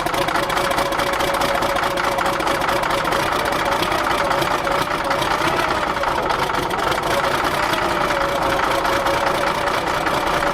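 Caterpillar D6D crawler dozer's six-cylinder diesel engine running steadily at idle, freshly started after years of sitting.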